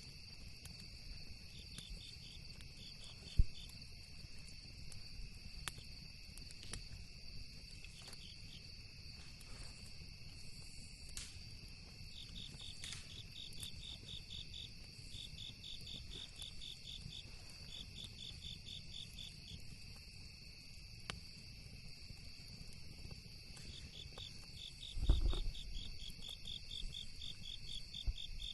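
Campfire crackling with scattered sharp pops, one loud pop about three seconds in, under the steady chirping and pulsed trills of crickets. A low thump comes near the end.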